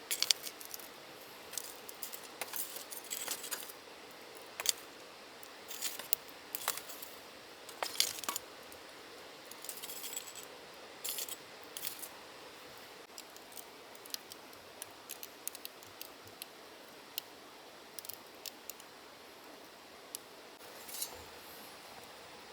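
Wood campfire crackling, with irregular sharp pops and snaps over a steady hiss. The crackles are thick in the first half and thin out later.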